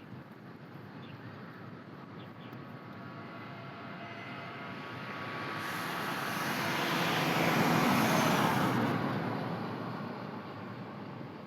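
A vehicle passing by: its noise swells over several seconds, peaks about eight seconds in with a slight drop in pitch, then fades away.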